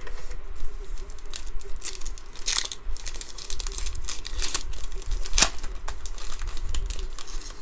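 A trading-card pack wrapper being torn open and crinkled by hand: a run of irregular crackling rips and rustles, loudest a few times in the middle.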